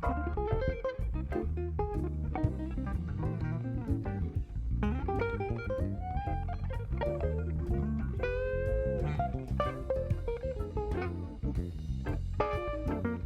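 Instrumental blues-jazz band jam: an electric guitar plays lead lines over electric bass and drum kit, with one held, wavering note about eight seconds in.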